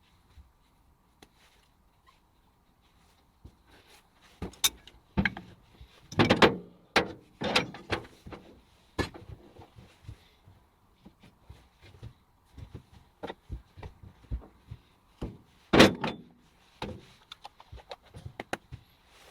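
Irregular knocks and thuds, one after another, starting a few seconds in. The loudest come about six seconds in and again near sixteen seconds.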